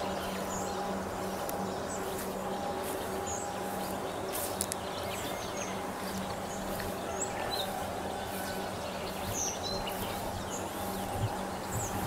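Birds singing in the trees: short, high chirps scattered all through, over a steady low hum.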